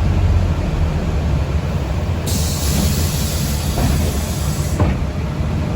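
City bus running, heard from inside the passenger cabin: a steady low rumble, with a high hiss that comes in about two seconds in, stops near the end and then returns.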